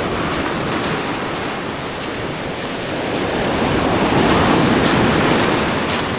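Ocean surf washing on the shore: a steady rush of water that swells to a louder surge a little past the middle, then eases.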